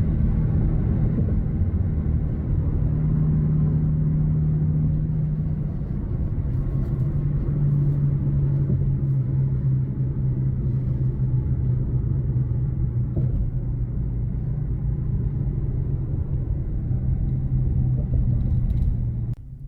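Steady low rumble of a car on the move: engine hum that drifts slightly in pitch under continuous road noise.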